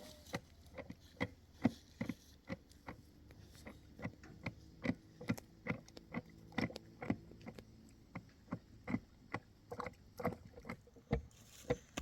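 A long run of sharp knocks or taps, about two to three a second, irregular in spacing and strength.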